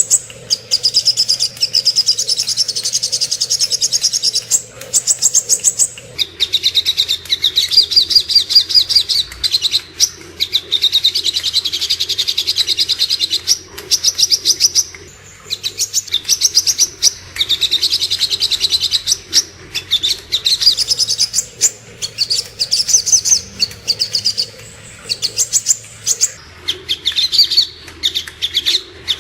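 Sogok ontong (spiderhunter) calling: long runs of rapid, sharp, high chipping notes, many per second, broken by brief pauses, as played for training caged songbirds.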